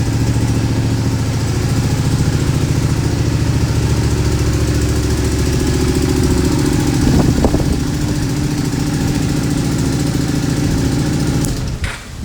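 Honda VTR250 250 cc V-twin idling through an aftermarket centre-up muffler, with two quick blips of the throttle about seven seconds in. The sound drops off near the end.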